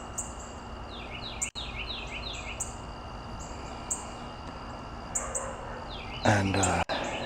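Garden birds chirping: short high chirps repeating about once a second, with a quick run of falling notes about a second in.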